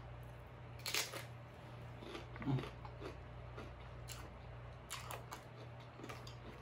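Close-up crunching and chewing of a crisp tostada shell topped with shrimp ceviche: a loud crunching bite about a second in, then a few more crunches and wet chews, over a steady low hum.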